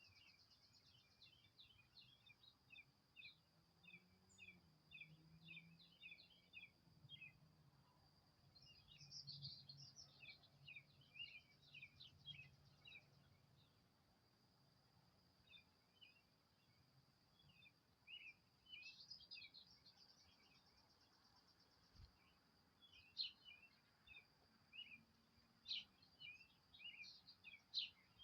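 Faint small birds chirping: many short high chirps in quick series, with louder clusters now and then, over a continuous thin, high trill.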